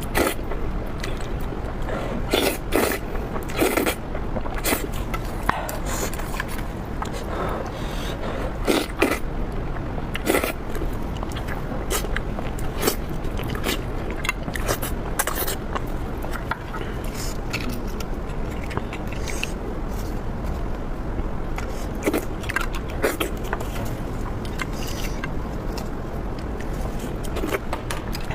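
Close-miked eating: a person chewing and biting food, with frequent short crackles and clicks of mouth and utensil sounds scattered throughout over a steady low background hiss.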